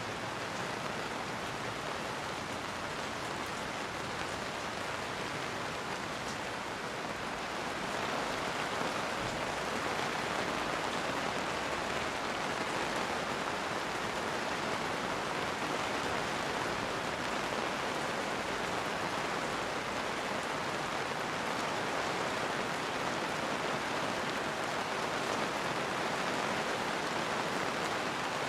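Steady rain falling, an even hiss that grows slightly louder about a third of the way in.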